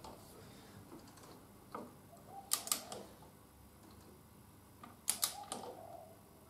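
Click-type torque wrench tightening a motorcycle fork pinch bolt, with sharp metallic clicks in two clusters, about two and a half and five seconds in. The click is the wrench reaching its set limit of 25 Nm.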